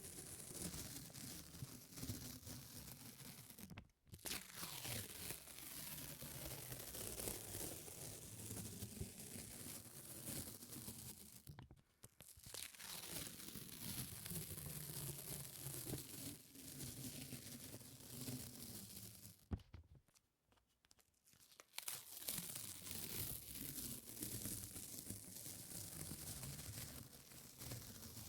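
Sticky surfaces pulled apart close to the microphone, making a continuous crackling, tearing sound. It stops briefly about 4 and 12 seconds in and for about two seconds around 20 seconds in.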